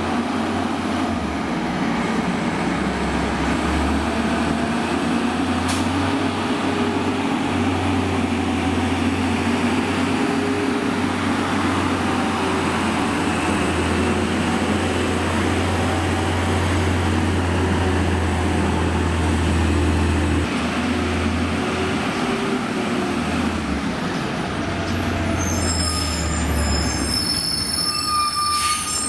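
Amrep automated side-loader garbage truck's diesel engine running steadily, with high-pitched squealing in several tones starting near the end.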